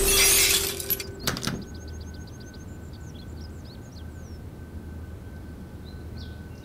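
A brief loud rush of noise, then a shorter one about a second later, followed by small birds chirping in quick runs over a faint steady background hum.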